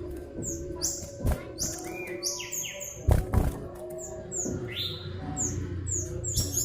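Common iora (cipoh) chirping: a rapid run of short, high notes that fall in pitch. Two dull thumps come a little after three seconds in.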